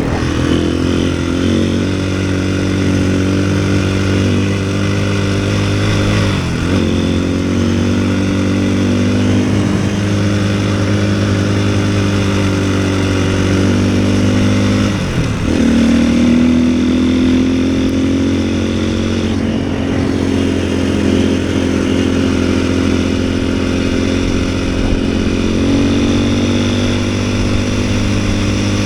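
A 450cc four-stroke single-cylinder snowbike engine runs steadily under load. Its pitch dips briefly and comes back twice, about six and fifteen seconds in.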